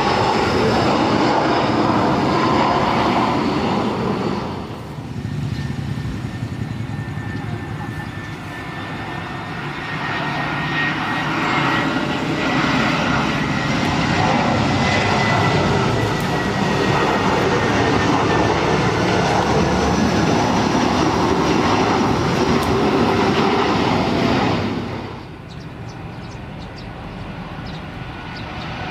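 Large jet aircraft engines running loud and close, with a high whine that sinks slightly in pitch. The sound drops off suddenly twice, about four seconds in and near the end.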